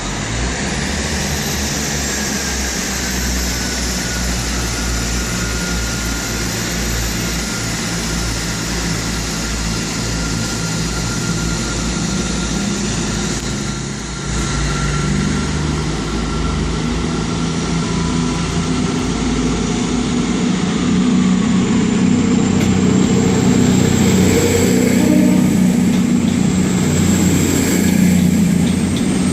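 Diesel passenger train engines running at a station, a steady low drone with a faint whistling tone, growing louder over the last several seconds.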